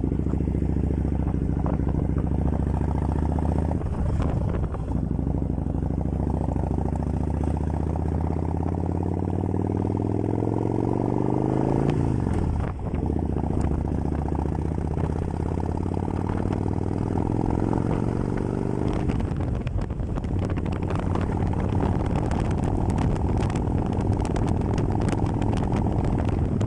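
Kawasaki Vulcan 1500 Classic's V-twin engine running loud and steady. Its note climbs gradually for several seconds, drops sharply about halfway through, then holds steady before shifting again about two-thirds of the way in.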